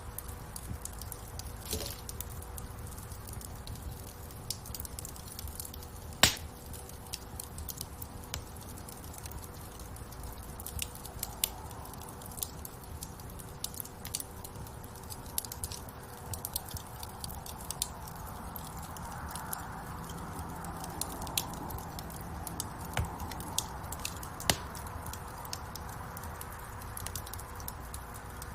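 Wood fire in a fireplace crackling, with many small irregular snaps over a low steady rumble of the flames and one loud pop about six seconds in.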